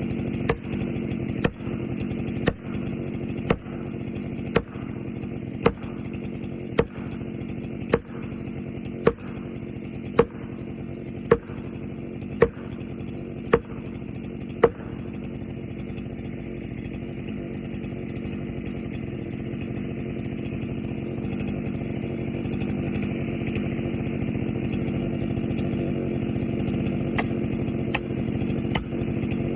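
Chainsaw engine running steadily, crossed by sharp ticks about once a second through the first half and again near the end.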